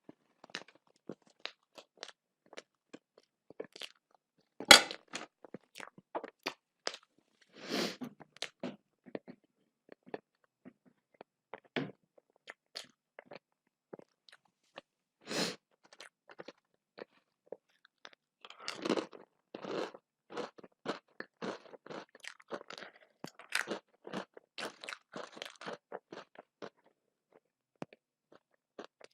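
A person eating close to the microphone: steady chewing with many short crunchy clicks and mouth sounds, the sharpest crunch about five seconds in.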